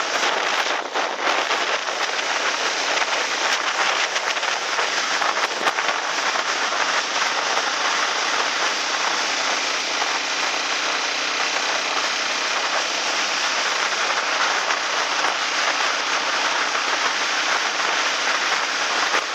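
Rushing water of a typhoon-swollen river in muddy flood, a loud, steady hiss with a faint crackle in it.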